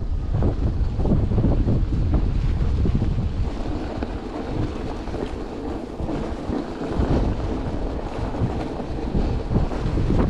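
Wind buffeting the microphone in a snowstorm: a loud, steady rumble with sharper gusts, heard while riding.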